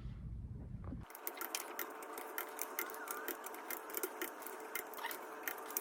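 Torque wrench and ratchet clicking rapidly and unevenly as a KA24 engine's bolts are tightened a second time to 61 foot-pounds. The clicking starts about a second in.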